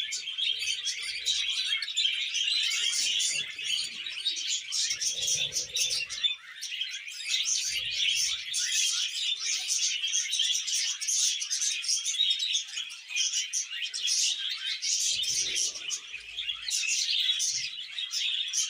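Several budgerigars chattering and warbling together, a continuous dense stream of chirps and squeaks.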